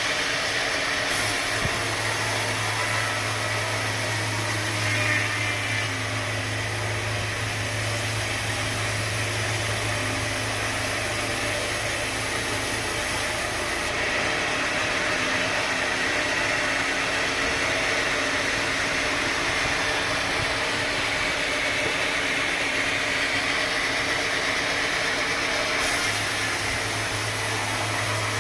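Sawmill machinery running steadily, a continuous mechanical noise with a low hum that drops away about halfway through and comes back near the end.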